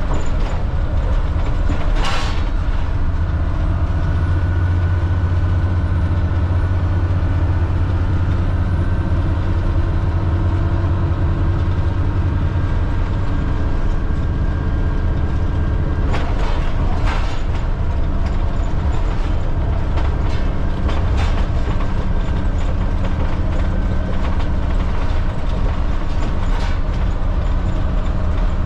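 Cat C7 diesel engine of a Blue Bird All American FE bus running steadily while the bus is driven, with road noise and a few sharp rattles or knocks from the body, about two seconds in and several times in the second half.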